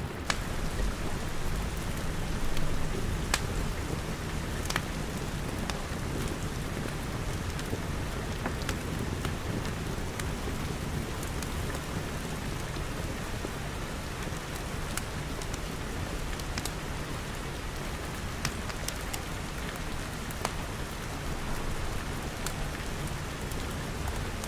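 Steady rain pattering, with a low rumble beneath it and scattered sharp pops of a crackling wood fire.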